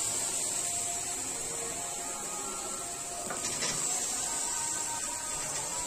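Onion-tomato masala sizzling steadily in a kadhai, with a few soft knocks a little over three seconds in as fried okra is tipped in from a steel bowl.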